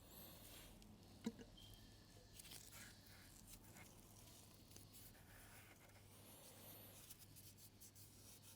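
Near silence with faint scattered clicks and one sharper click about a second in, typical of small metal pump parts being handled on a bench, over a steady low hum.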